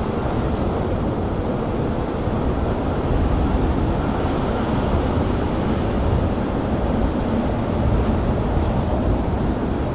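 Steady low rumble of railyard ambience, with a faint high steady whine above it and no distinct events.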